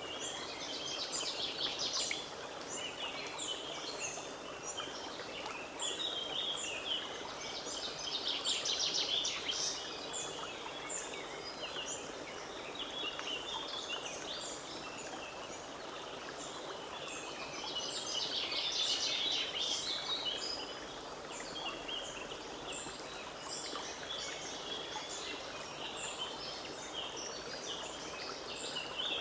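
A forest stream running steadily, with many small birds chirping and singing over it; the birdsong thickens into busier flurries three times, about a second in, around nine seconds in and around nineteen seconds in.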